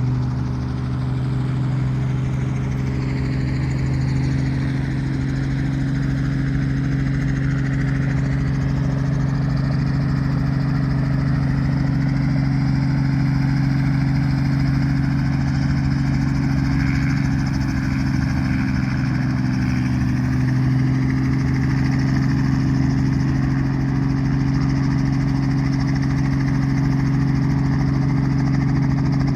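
Helicopter engine and rotors running steadily close by, a constant low hum.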